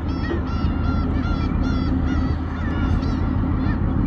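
Black-tailed gulls calling: a quick run of short, arched calls, about three a second, over the steady low hum of a fishing boat's engine.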